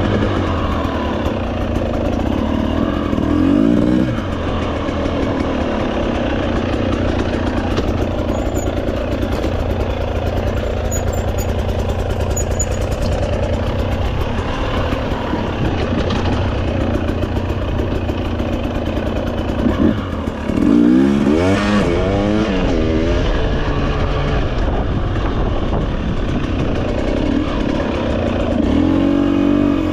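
Off-road motorcycle engine running while ridden along a dirt trail, its pitch rising and falling as the throttle is worked, with the sharpest revving about twenty seconds in.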